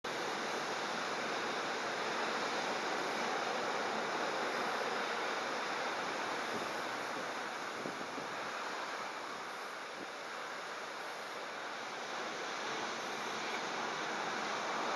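Heavy storm surf in typhoon wind: a steady, continuous rush of breaking waves.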